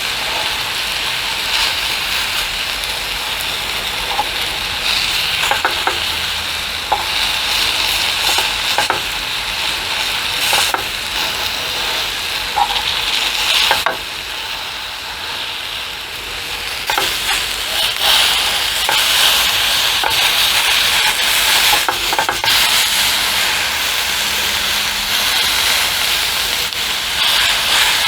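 Steak frying in a pan: a steady sizzle with scattered pops and spatters.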